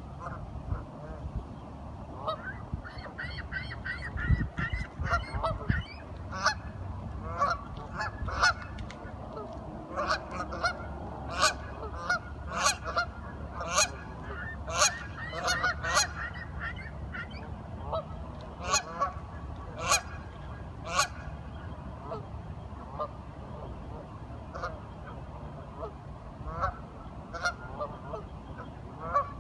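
A group of ducks quacking: many short, nasal calls in quick runs, busiest through the middle and thinning out toward the end. A low rumble comes a few seconds in.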